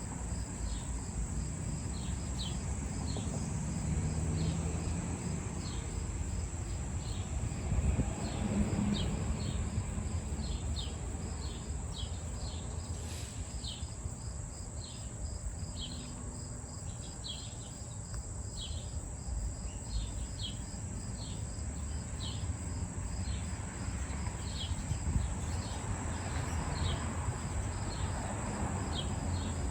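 Insects calling: a steady high-pitched drone, with crickets chirping over it about once or twice a second, over a low background rumble.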